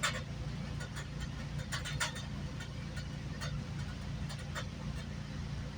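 Steady low rumble of a GO Transit bilevel passenger coach running along the track, heard from inside the coach, with a faint steady hum and irregular short clicks and rattles.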